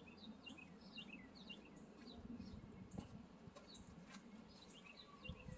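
Faint small-bird chirping: a quick run of short, falling chirps that keeps repeating, over a quiet background, with a couple of faint clicks about three and four seconds in.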